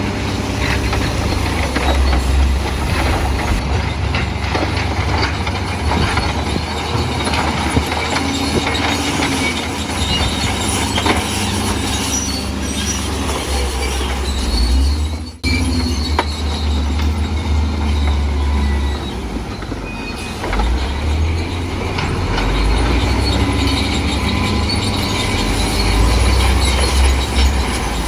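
Bulldozer working, its diesel engine rumbling low under the squeal and clatter of its steel crawler tracks. The sound breaks off for an instant about halfway through, then carries on.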